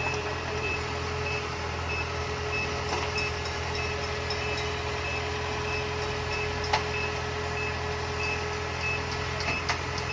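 Heavy machine's reversing alarm beeping steadily over the low, even running of its diesel engine, with a sharp click about seven seconds in.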